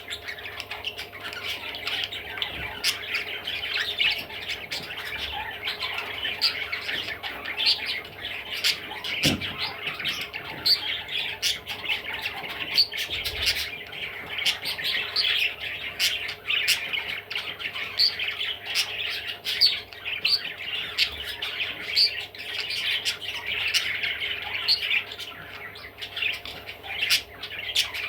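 Budgerigar chattering and warbling non-stop, a busy run of squawks, chirps and sharp clicks.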